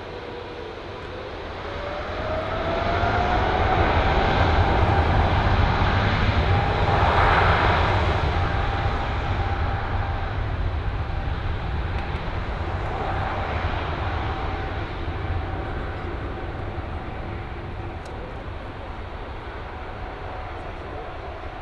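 Boeing 777-300ER's twin GE90-115B turbofans at takeoff thrust: a deep jet roar that builds over a couple of seconds, peaks, then slowly fades as the airliner draws away. A steady engine whine runs through it, rising in pitch early on and then holding level.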